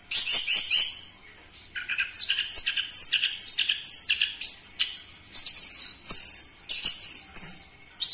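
Orange-headed thrush singing loudly: a quick burst of high notes, a pause of about a second, then a fast, unbroken run of short, down-slurred whistled phrases.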